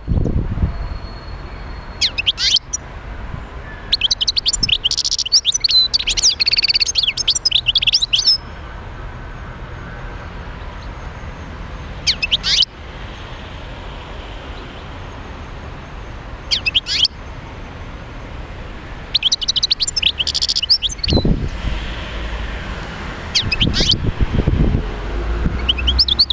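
European goldfinch singing: bursts of rapid twittering trills every few seconds, the longest about four seconds. Two low rumbles come in the second half.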